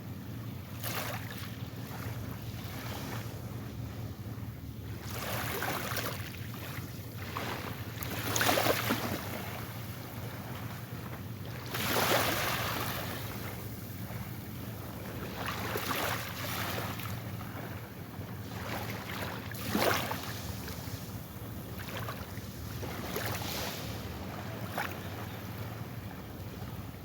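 Small ocean waves breaking and washing up the shore, a swell of surf hiss every three to four seconds over a steady low rumble.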